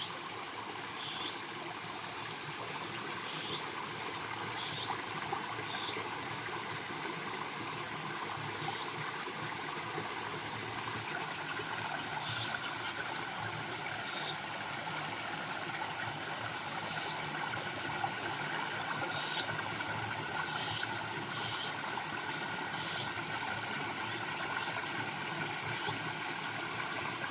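Mountain valley stream flowing steadily, a constant rush of water.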